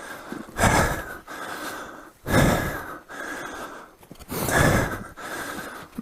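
A dirt-bike rider breathing hard and winded after a failed attempt at a trail obstacle, with three heavy breaths about two seconds apart.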